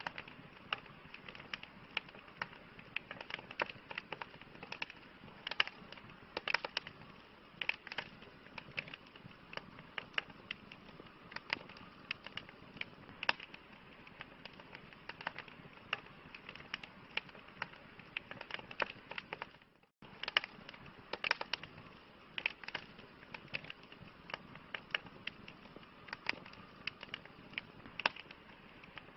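Campfire crackling: irregular sharp pops and snaps from burning wood over a soft steady hiss. The sound drops out for a split second about twenty seconds in.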